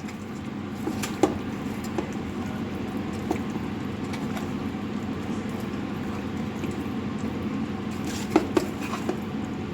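Raw chicken pieces being mixed into a thick yogurt and spice marinade, a steady wet squelching with a few sharp clicks, the loudest a little over a second in and two more near the end.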